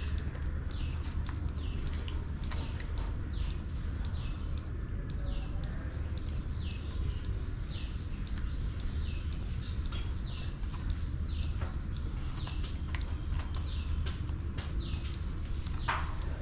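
A small bird calls over and over: a short, high chirp falling in pitch, repeated evenly about every two-thirds of a second, over a steady low rumble. One stronger, lower call comes near the end.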